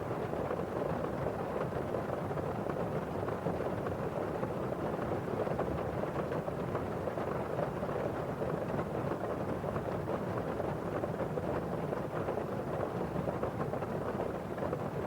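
Steady rain on a windowpane: a dense, constant patter of drops against the glass over the rustle of rain outside.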